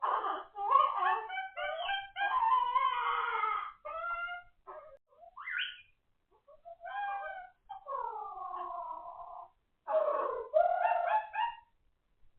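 Pet parrot vocalizing: a string of pitched, wavering calls in short clusters with brief pauses between them, including a longer call that slides slowly down in pitch about eight seconds in.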